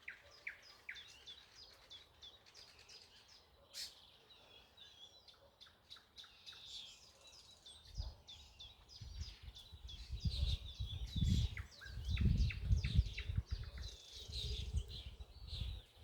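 Several songbirds chirping and trilling in quick, overlapping phrases. From about halfway through, a loud, uneven low rumble comes and goes beneath the birdsong.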